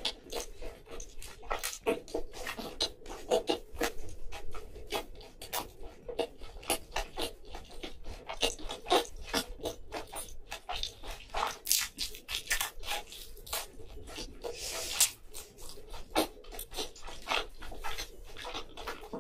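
Close-miked chewing: a steady run of crisp crunches, clicks and wet mouth sounds from someone eating, ASMR-style.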